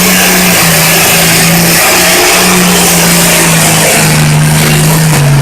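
Pulling tractor's engine running flat out under load as it drags the weight-transfer sled, a loud steady drone whose pitch sags a little near the end as the sled's weight builds.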